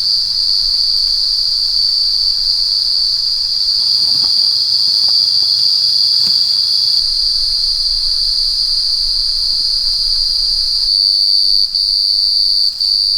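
Loud, steady, high-pitched drone of an insect chorus, unbroken throughout and shifting slightly near the end.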